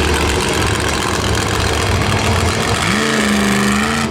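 Smashosaurus monster truck's engine running loud, revving up about three seconds in and holding the higher pitch.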